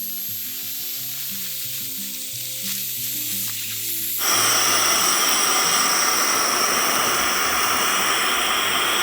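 Background music over a light hiss. About four seconds in, a loud, steady whirring noise with a high whine switches on suddenly: an electric air pump inflating the air tent.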